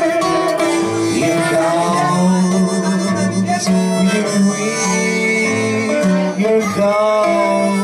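Blues harmonica playing an instrumental break with held, bending notes over guitar accompaniment.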